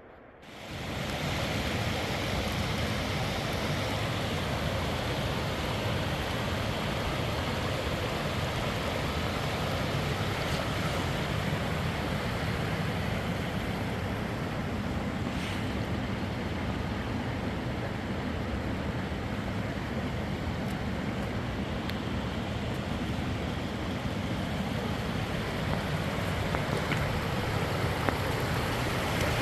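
Fast-flowing mountain river rushing steadily. It fades in within the first second and then holds at an even level.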